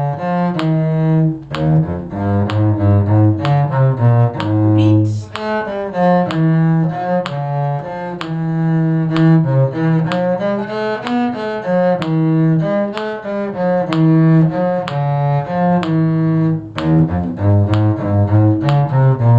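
Bowed string instruments playing a simple tune in short, evenly paced notes over a low bass line.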